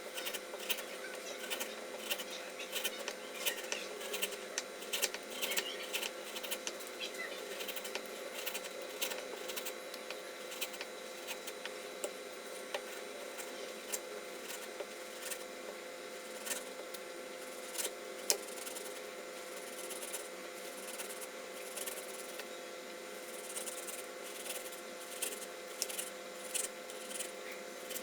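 Knife making quick repeated cuts through a raw potato, a run of small irregular clicks and taps over a faint steady hum.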